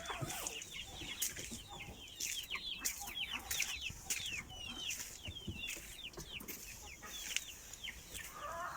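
A flock of chickens calling: many short, high, falling chirps overlapping without a break.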